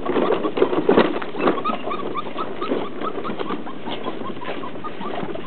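Birds calling: a run of short rising chirps, several a second, with some lower, louder calls in the first second or so.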